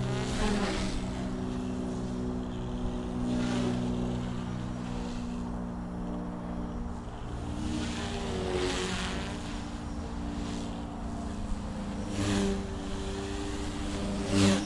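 Goosky S1 electric RC micro helicopter in flight: its motors and rotors run with a steady multi-tone hum that shifts in pitch now and then. Several bursts of rushing noise cut across it, the loudest near the end.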